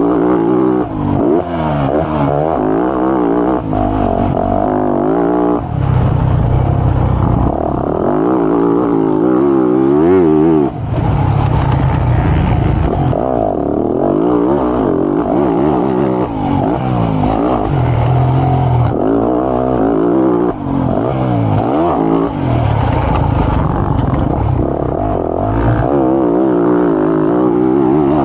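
Motocross bike engine revving hard and falling back again and again as it is ridden through a lap, the pitch sweeping up and down every second or two, with a few brief dips in power.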